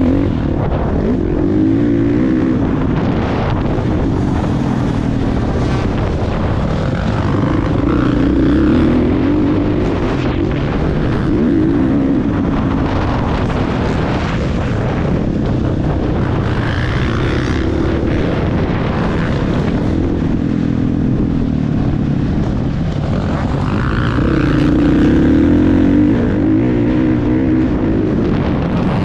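Motocross bike engine running hard and revving up and down, its pitch rising and falling every few seconds without a break.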